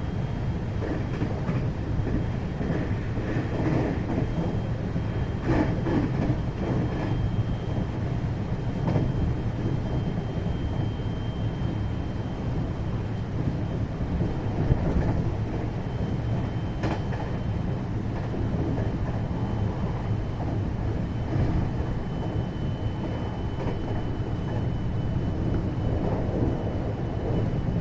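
521 series electric multiple unit heard from inside its motor car, running at line speed: a steady low rumble of wheels on rail with a thin steady high whine and a few sharp clicks from the track.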